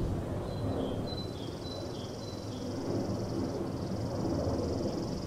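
Small birds calling outdoors: a few short high chirps, then from about a second in a long, high, fast trill that breaks off once briefly and carries on, over a low background rumble.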